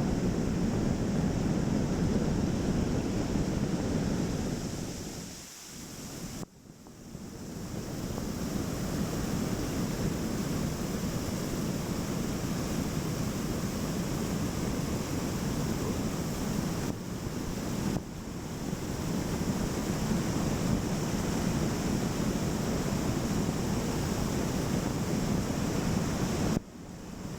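Steady rush of a waterfall's falling water, with a brief drop in level about six seconds in.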